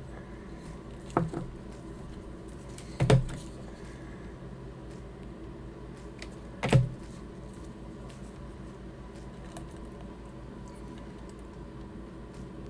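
Handling noise from craft work on a table: three short knocks about one, three and seven seconds in, the second and third loudest, over a steady low hum.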